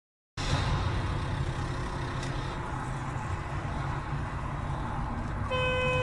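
Steady low rumble of a vehicle's engine and road noise; about five and a half seconds in, a car horn starts sounding one long steady note.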